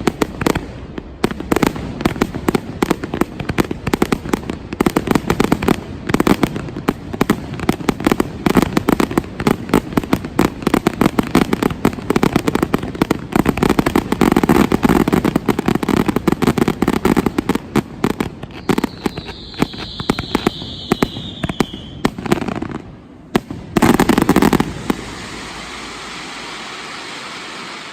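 A fireworks display: a dense, rapid barrage of bangs and crackling from exploding shells. About two-thirds through a falling whistle sounds over the crackle, then after a short lull comes one last loud burst, and the bangs give way to a steadier, quieter noise.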